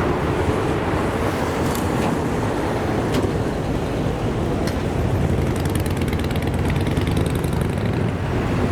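Steady low rumble of a passing vehicle, with a few sharp clicks and a quick run of high ticks about six seconds in.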